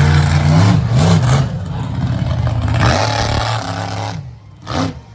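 Monster truck engine running hard, then revved up and down in quick throttle blips. It drops back to a lower, quieter run with a couple more short revs near the end.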